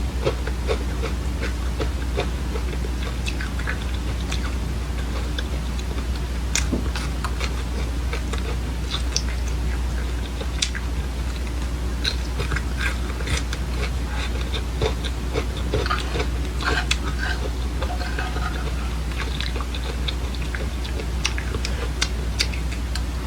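Close-up chewing of dry seeds: many small, crisp crunches and clicks at an irregular pace, over a steady low hum.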